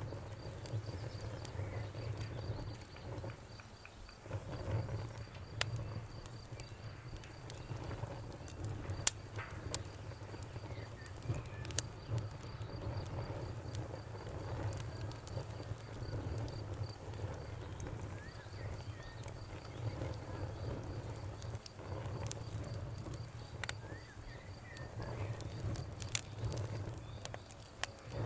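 Campfire of burning wood crackling, with scattered sharp pops over a low steady rumble, while a cricket chirps in a fast, even pulse.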